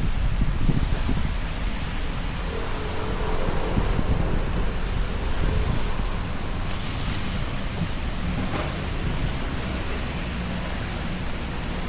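Steady heavy rain hiss with gusting wind and a low rumble of wind buffeting the microphone.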